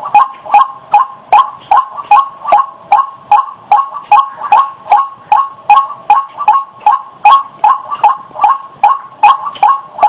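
White-breasted waterhen (ruak-ruak) calling: short, evenly spaced calls repeated steadily about two and a half times a second.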